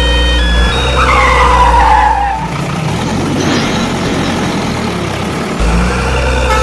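Cartoon vehicle sound effects: a screech falling in pitch, like tyres skidding, then a noisy engine-like rumble over background music. The music's bass drops out in the middle and returns near the end.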